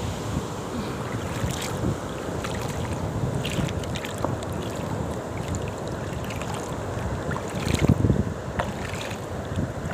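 Wind buffeting the microphone, with gusts strongest about eight seconds in, over a steady wash of sea surf.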